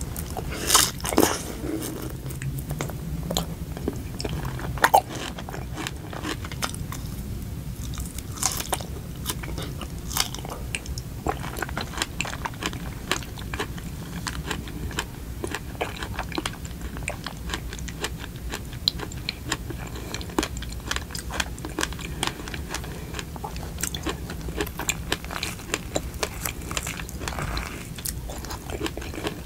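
Close-miked chewing of a whipped-cream-coated strawberry, with many small mouth clicks and a couple of louder bites about a second and five seconds in.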